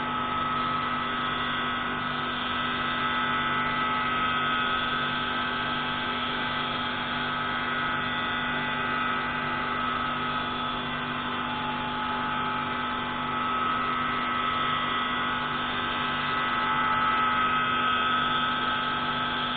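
Pneumatic grinding tool running steadily while grinding a marine engine intake valve: a constant whine over a low hum, with no breaks.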